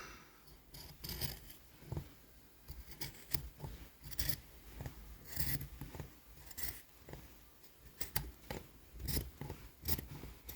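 Scissors snipping through folded fabric in short, separate cuts, a snip about every second or so, irregularly spaced.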